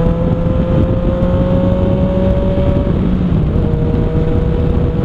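Yamaha FZ-09 (MT-09) three-cylinder engine running under way through an aftermarket Arrow exhaust with the dB killer removed. The pitch climbs slowly and then breaks briefly about three seconds in, picking up again a little lower.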